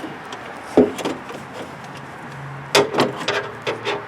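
Scattered clicks and knocks of plastic and metal parts being fitted inside a car door during a door lock actuator and linkage job: one sharp knock about a second in, then a quick cluster of clicks near the end.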